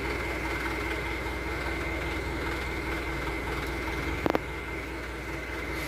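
Mitsubishi Canter dump truck's diesel engine running steadily, with a brief sharp double knock about four seconds in.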